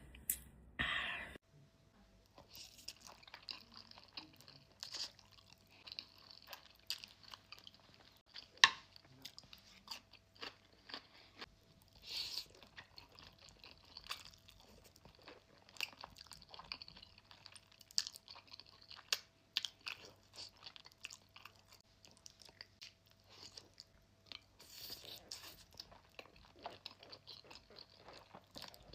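Close-up eating sounds: a person bites into and chews a crunchy onion cup filled with egg, with many irregular sharp crunches between softer chewing, one crunch much louder than the rest a little before the midpoint.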